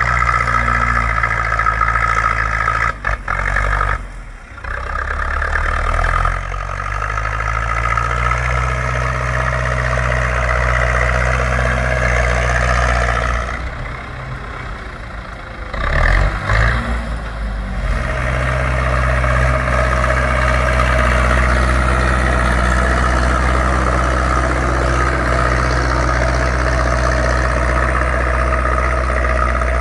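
Zetor 6245 tractor's diesel engine running steadily, dipping briefly in level about four seconds in and again around the middle.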